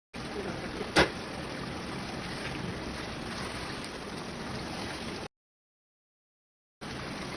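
Steady sizzling and bubbling of food cooking in a karahi, with one sharp knock about a second in. The sound cuts out to silence for about a second and a half near the end.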